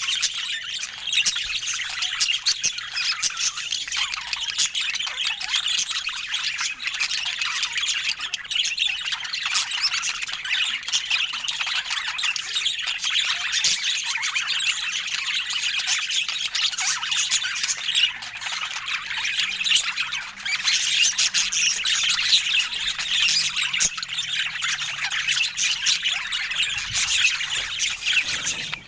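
Budgerigars chattering and squawking continuously, a dense run of quick chirps and warbles without a break.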